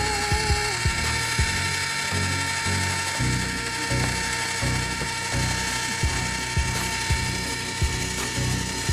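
Ice cream maker churning in a bucket of salted snow, its motor and gears grinding and clicking in a steady rhythm of about two strokes a second.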